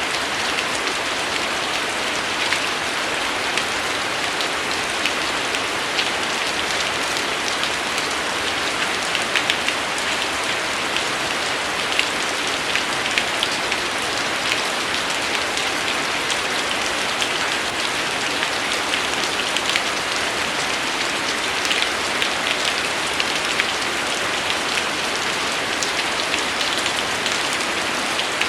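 Steady rain falling, an even hiss with many sharp little drop taps striking a surface.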